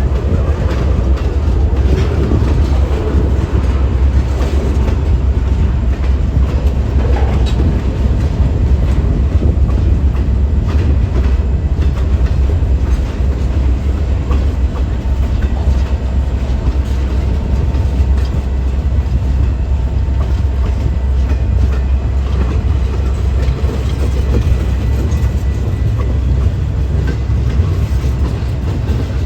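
Train rolling past, a steady, loud rumble of railcars with wheels clacking over the rail joints.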